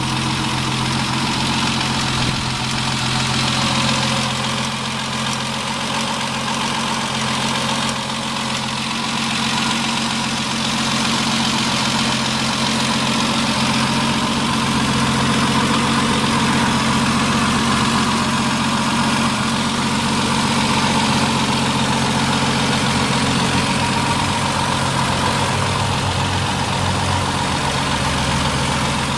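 Triumph Vitesse 2.0-litre straight-six idling steadily.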